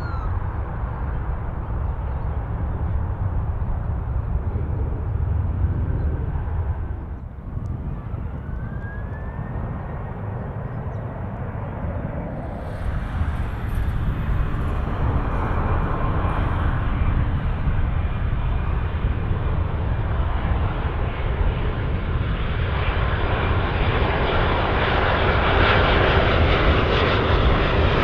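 Jet airliner engines on landing, a steady rumble with a whine. There is a short dip and a change about halfway through, then the jet noise builds louder toward the end as the next airliner comes in close.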